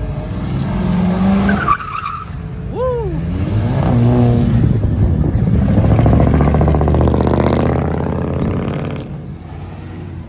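Car engines revving hard, the sound swelling to its loudest in the middle, with a short high squeal that rises and falls about three seconds in.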